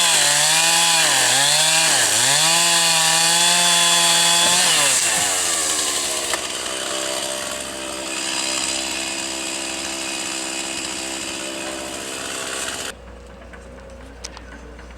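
Two-stroke chainsaw cutting wood, its engine note sagging and recovering about once a second as the chain bites, then held at high revs. About five seconds in it drops back to a steady idle. Near the end the sound cuts off suddenly, leaving only a low hum.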